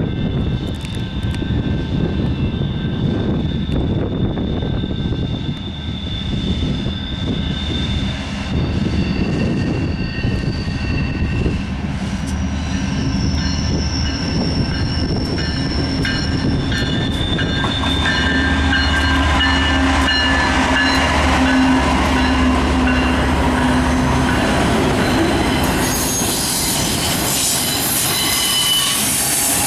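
Freight train approaching and passing: a diesel locomotive's engine drone builds and is loudest about two-thirds of the way through. Near the end the freight cars' wheels roll and squeal on the rails.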